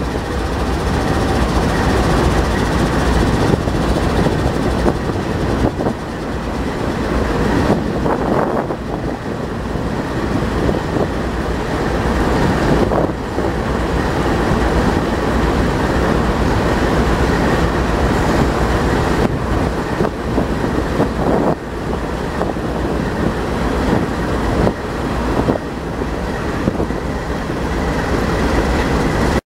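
Freight train of ethanol tank cars rolling past close by: a steady rumble of steel wheels on rail, with a few sharper knocks here and there.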